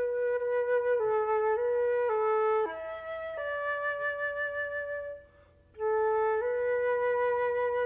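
Solo flute playing a slow stepwise melody: a long held note at the start, then notes moving down and up, with a short break for breath about five seconds in.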